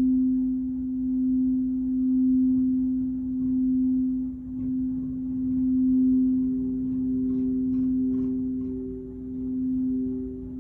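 Crystal singing bowl sounding a steady low tone that swells and fades every couple of seconds; about six seconds in a second, higher-pitched crystal bowl joins it.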